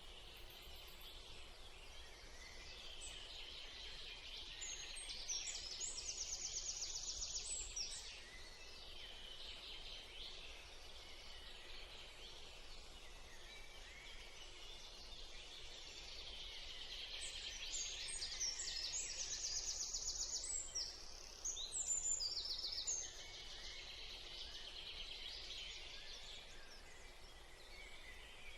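Birds chirping in a garden, with two louder spells of rapid, high trilling, one about five seconds in and one around eighteen seconds in, over a steady high hiss.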